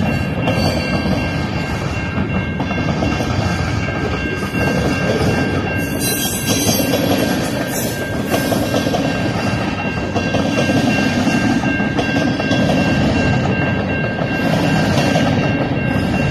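Cars of a slow-moving CN mixed freight train rolling past: a steady rumble of wheels on the rails with some clickety-clack, and a thin steady high whine over it.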